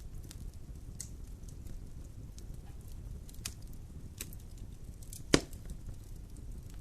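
Wood fire burning in a fireplace: a low steady rumble of flames with scattered faint crackles, and one loud pop a little past five seconds in.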